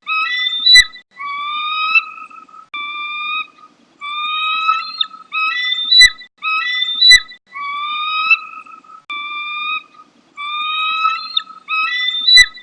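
Bald eagle calling: a series of high, thin whistled notes, some short and clipped and some longer and slightly rising, repeating in the same phrase every few seconds, with a few sharp clicks among them.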